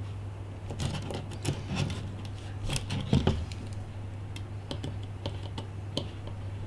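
Light clicks and taps of small repair tools and tiny parts being handled while an iPhone 5 is taken apart. They come in a quick cluster over the first few seconds, then more sparsely, over a steady low hum.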